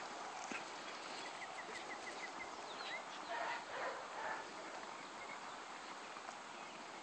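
Open pasture ambience with a bird singing: a quick trill of about seven short notes about a second in, then a rising call. A brief, louder animal sound comes about three and a half seconds in.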